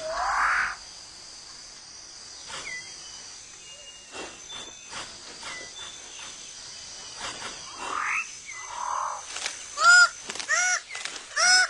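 New Guinea rainforest ambience: a steady high insect hum for the first few seconds, scattered bird calls including short rising whistles, then near the end three loud, arched calls in quick succession.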